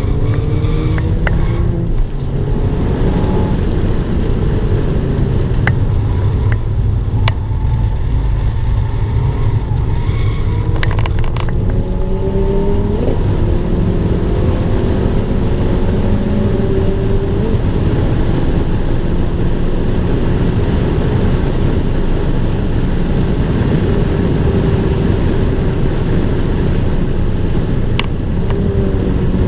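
Abarth 595 Turismo's 1.4-litre turbocharged four-cylinder engine pulling hard on track. Its pitch rises and drops back at each upshift several times, over a steady rush of road and tyre noise, with a few sharp clicks.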